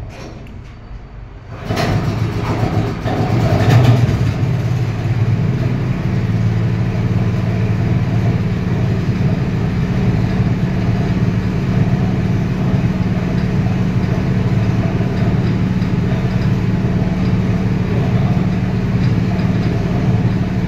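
Petrol engine of a sugarcane juice machine starting up about two seconds in, then running steadily with a low hum.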